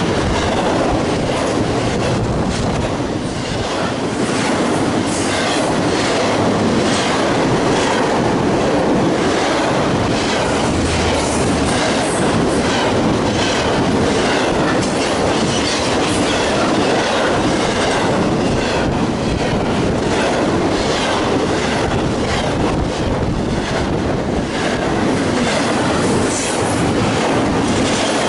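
Intermodal freight train's double-stack well cars and trailer flatcars rolling past: a steady rumble of steel wheels on rail, with repeated clicks as the wheels cross rail joints.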